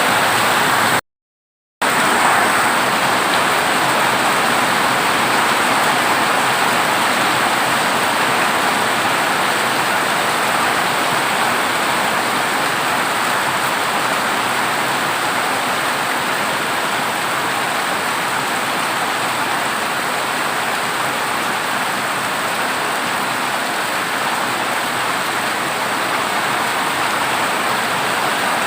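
Heavy rain drumming steadily on a corrugated zinc roof. The sound cuts out completely for under a second about a second in, then resumes.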